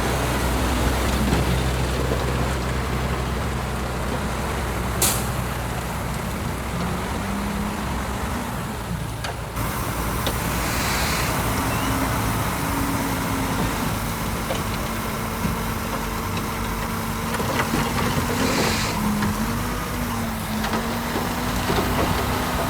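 Heavy diesel machinery running steadily: the engines of a bulldozer and a dump truck, their pitch wavering slightly. Short hisses come about 5, 11 and 19 seconds in.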